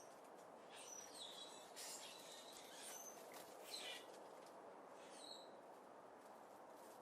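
Faint, short bird chirps and tweets, several between about one and five and a half seconds in, some sliding quickly in pitch, over a steady low background hiss.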